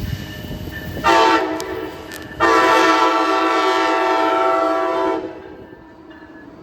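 Amtrak passenger locomotive's multi-chime air horn sounding a short blast, then a long blast of about three seconds that cuts off, over the low rumble of the passing train.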